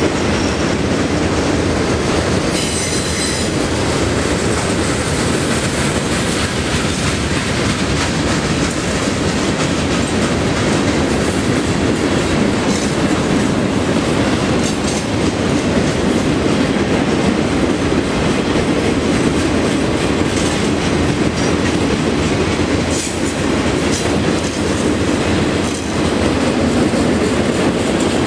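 Freight cars of a Union Pacific manifest train rolling past, a loud steady rumble with wheels clicking over the rail joints. A brief high-pitched wheel squeal comes about three seconds in.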